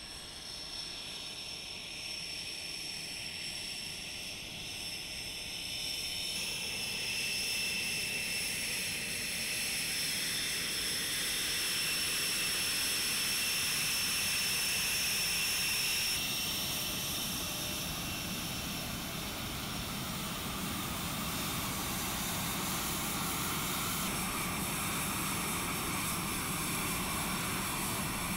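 Panavia Tornado GR4 jet engines running with a steady high-pitched whine over a broad rush, growing louder over the first several seconds. The tone shifts abruptly about 6, 16 and 24 seconds in.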